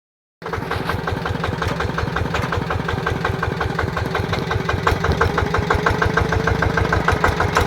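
Yanmar TF120 DI single-cylinder diesel engine running steadily, with a quick, even chugging beat of about ten firing pulses a second.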